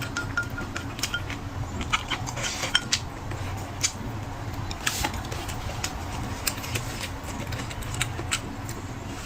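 Eating sounds: irregular clicks and clinks of utensils against dishes, with chewing, over a steady low hum.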